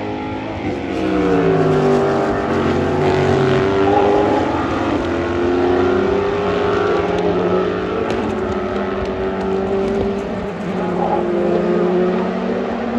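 Several race cars' engines running hard at the same time, their pitches overlapping. Some hold a steady note while others fall in pitch as cars pass by and shift.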